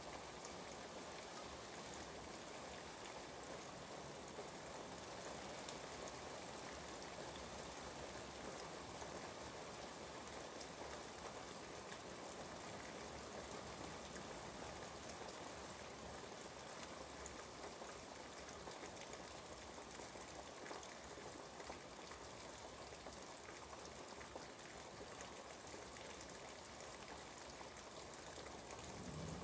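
Steady rain falling outside an open window, an even patter of raindrops.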